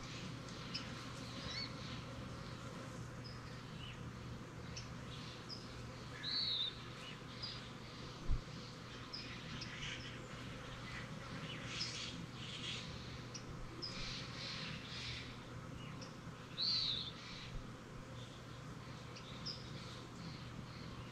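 Wild birds chirping and calling back and forth, with two louder slurred whistled notes about six seconds in and again near seventeen seconds, over a steady low insect buzz. A single soft thump about eight seconds in.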